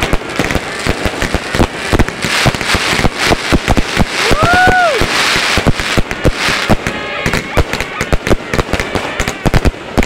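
Fireworks and firecrackers going off in rapid, dense volleys of bangs and crackles, with a hissing stretch in the middle and a short whistle that rises then falls about four seconds in.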